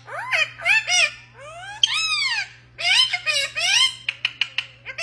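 Parrot vocalising: a string of chattering, speech-like squawks and whistles that arch up and down in pitch, with a quick run of sharp clicks near the end.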